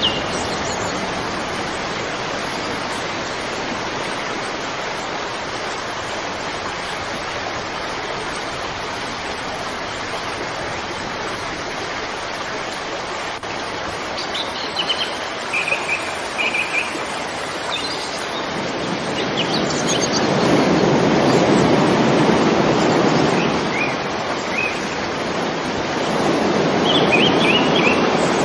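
Nature soundscape: a steady rushing hiss with short clusters of bird chirps now and then. In the second half there are two longer swells of deeper rushing sound.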